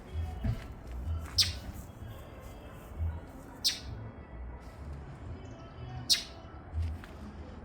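A bird giving three short, sharp, high calls spaced about two and a half seconds apart, with dull low rumbles between them.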